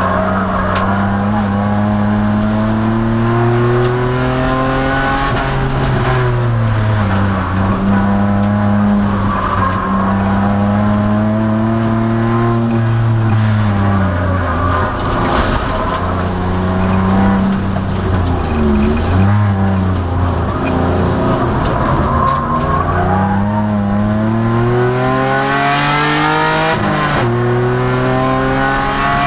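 2002 Nissan Maxima's 3.5-litre V6 running hard on track, its revs climbing and falling again and again through the corners, with a quick drop near the end as it shifts gear.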